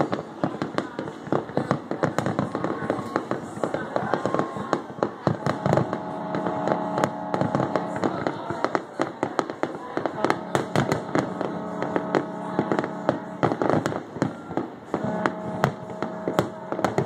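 Fireworks finale: aerial shells bursting in a rapid, continuous barrage of sharp bangs and crackles that overlap throughout.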